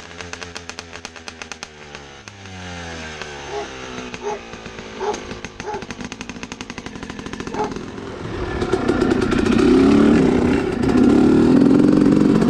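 Dirt bike engine running: its revs drop over the first couple of seconds, a few short blips follow, and it gets louder and fuller in the last few seconds.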